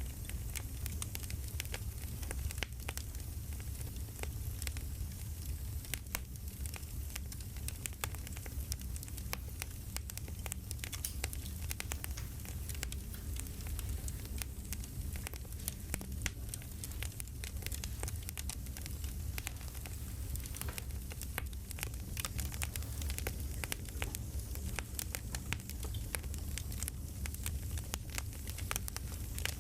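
Wood campfire crackling: many small sharp pops and snaps over a steady low rumble.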